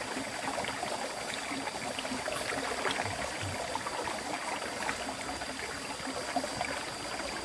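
River water flowing over rocks: a steady rushing and babbling with many small splashes and gurgles, even in level throughout.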